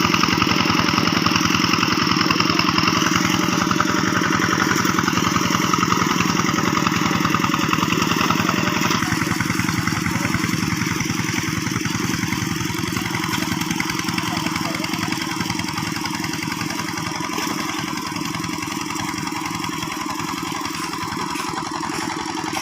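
Diesel engine of a two-wheel hand tractor running steadily with a fast, even chug. The sound changes slightly about nine seconds in and then grows a little quieter.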